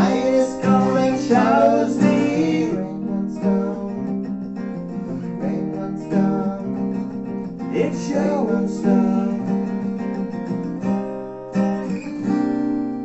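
Acoustic guitars playing the song's instrumental ending, strummed chords closing on a last chord about eleven and a half seconds in that is left to ring and fade.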